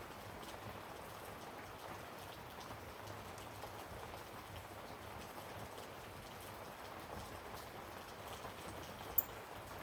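Steady patter of rain, with one sharp click about nine seconds in.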